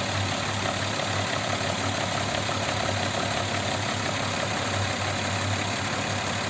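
Audi Q7 3.6 FSI VR6 engine idling steadily while warming up, with a faint knock just beginning to appear. The knock grows as the engine warms and is gone when cold, which the owner suspects is a camshaft phaser rattling.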